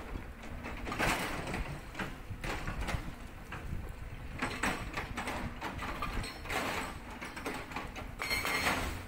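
A Cat 320D excavator working a Sangdo SD220 hydraulic breaker on rock: a steady low engine rumble under irregular grating and knocking of steel on stone, coming every second or so.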